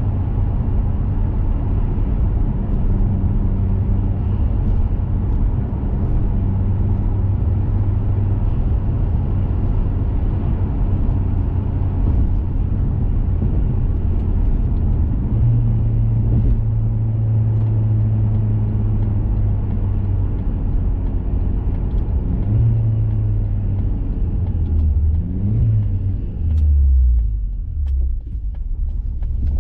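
A 2021 Mazda 3 Turbo hatchback's 2.5-litre turbocharged four-cylinder, fitted with a CorkSport cat-back exhaust and BMS intake, driving along with a steady low drone. In the second half the engine note steps and glides up and down several times as speed and load change.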